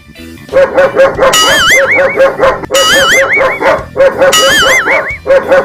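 Recorded dog barking played for a prank: a fast, evenly repeated run of short barks. A high warbling electronic tone comes in three times over it.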